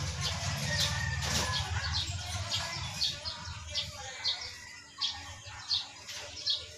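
A small bird chirping over and over in short, high chirps, about two or three a second. A low rumble under it in the first two seconds fades away.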